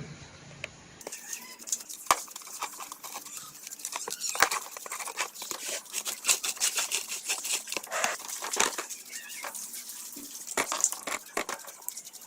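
Hand work on small metal engine parts: irregular clicks, taps and scraping, without a steady rhythm.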